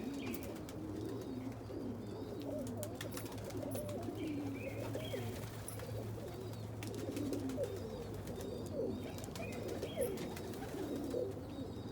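A flock of domestic pigeons cooing, many low wavering coos overlapping throughout, with scattered short clicks and a steady low hum underneath.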